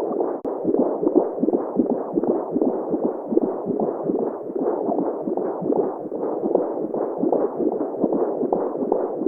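Womb-sound white noise: a muffled, continuous whooshing with a fast, uneven throbbing pulse running through it.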